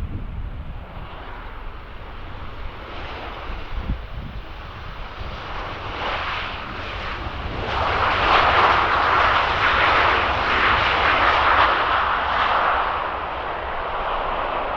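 Jet aircraft engines passing, the noise building to its loudest about halfway through and easing off slightly near the end.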